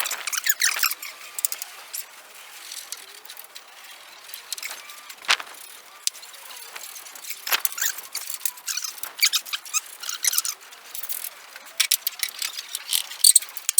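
Irregular metal clicks, knocks and short scraping squeaks as a hoist-hung Ford flathead engine is worked and shifted onto its engine mounts.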